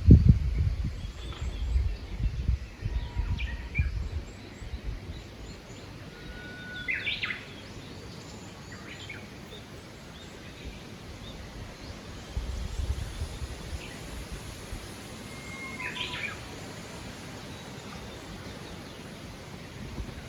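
Wind gusting on the microphone with low rumbles, strongest at the start and again about two-thirds of the way through. Songbirds call a few times in the background, with two clearer songs about a third of the way in and near the end.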